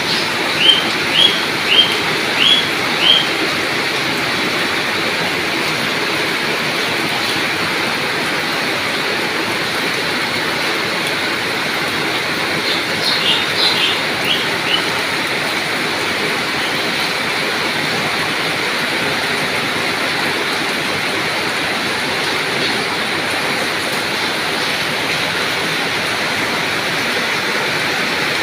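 Steady heavy rain falling, an even hiss throughout. A bird calls through it: five short high notes in the first few seconds, and another quick cluster of notes about halfway through.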